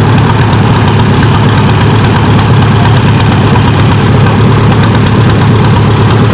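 Antique farm tractor engine running steadily and loud, close to the microphone, with a deep low rumble.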